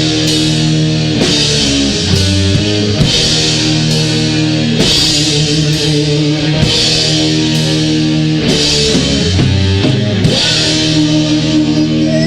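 Heavy metal band playing an instrumental passage: distorted electric guitars holding chords over bass and drums, with cymbal crashes every couple of seconds.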